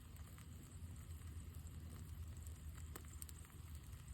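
Campfire crackling faintly, a few sharp pops near the end, over a steady low rumble.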